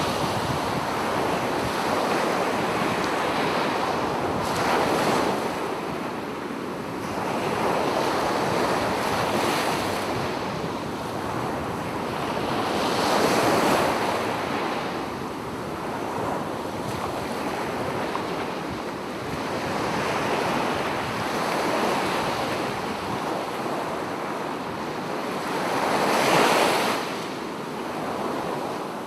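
Sea waves breaking on a beach: a steady rush of surf that swells with each breaking wave every few seconds and then eases back.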